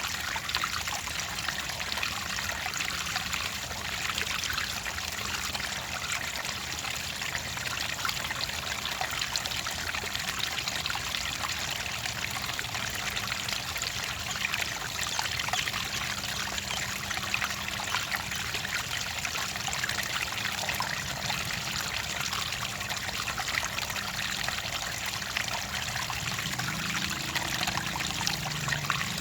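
Clear water trickling and splashing steadily, a stream of small rapid splashes with no breaks.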